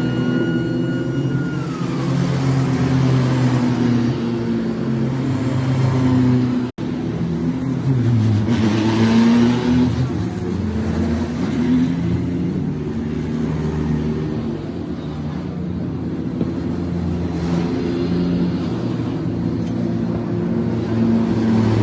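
Car engines running and revving, their pitch rising and falling. The sound cuts out for an instant about seven seconds in.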